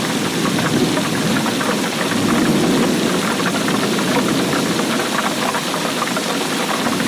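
Steady heavy rain: a dense patter of fine drop ticks over a low, even rumble.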